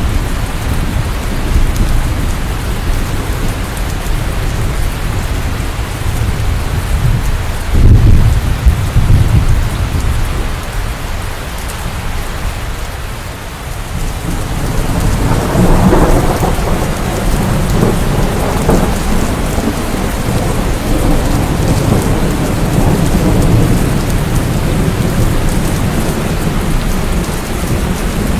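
Steady rain with rolling thunder: low rumbles swell about eight seconds in, and a longer, louder peal starts about halfway through and rumbles on to the end.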